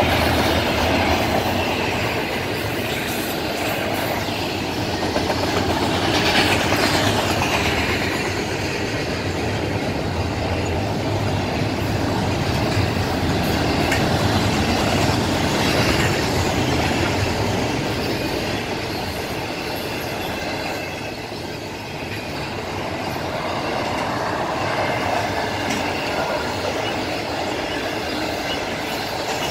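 Union Pacific intermodal freight train's double-stack container well cars and trailer flatcars rolling past, steel wheels rumbling and clattering over the rail joints. A brief higher-pitched wheel squeal comes in about six seconds in.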